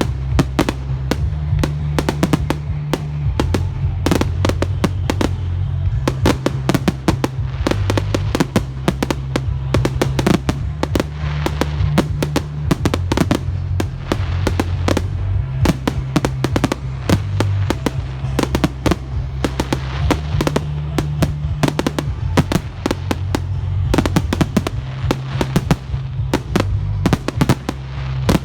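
Fireworks going off thick and fast, a continuous run of sharp bangs and crackles, over loud music with a steady bass line.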